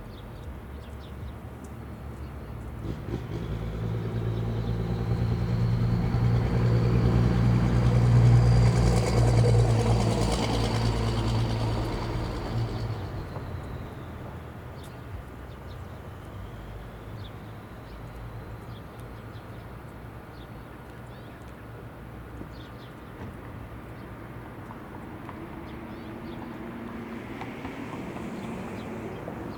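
A motor vehicle passing by: its engine and road noise grow louder over about five seconds, peak around eight seconds in, and fade away by about fourteen seconds, leaving a low steady background.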